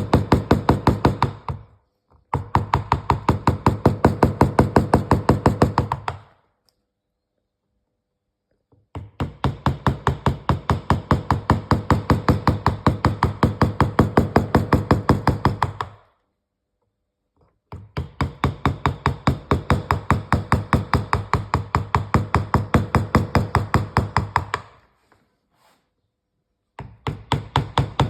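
Rapid, even knocking on wood, several strokes a second, in runs of several seconds broken by short pauses.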